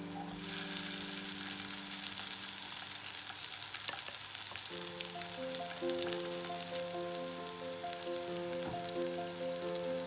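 Food sizzling and crackling in a hot frying pan, strongest in the first few seconds, with soft background music coming in about halfway through.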